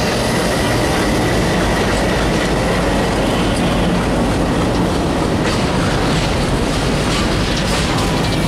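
Freight train of covered wagons passing close by at speed: a steady, loud rumble with the clatter of wheels over the rail joints.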